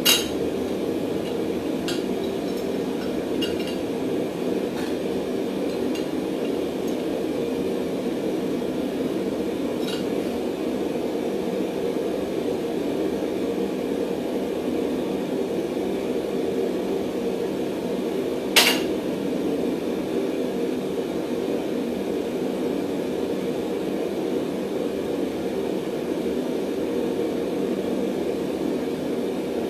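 A forge running with a steady low rush, and a couple of sharp metal clanks of steel on steel, one right at the start and a louder one about two-thirds of the way through, with a few faint ticks between.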